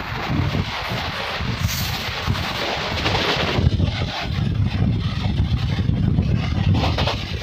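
Running noise of a passenger train at speed with a freight train passing close alongside on the next track: a loud low rumble of steel wheels on rails and rattling wagons, with wind buffeting the microphone. The higher hiss drops away about halfway through, leaving mostly the rumble.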